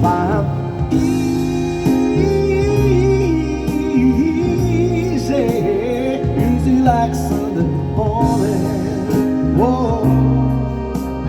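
Live band music: a singer's voice slides up and down in runs over sustained chords and bass.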